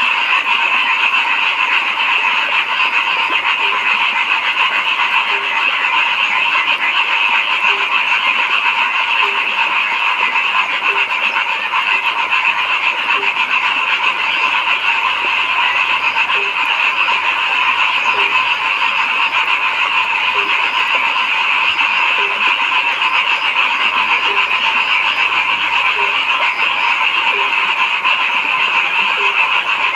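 A dense, unbroken chorus of many frogs calling at once, steady in level. Beneath it a lower note repeats every second or so.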